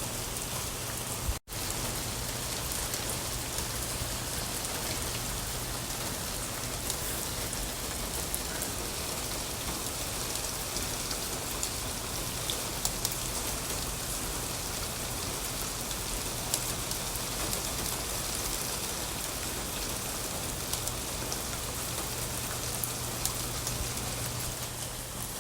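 Steady rain falling, with scattered drops ticking on a surface. The sound cuts out for an instant about a second and a half in.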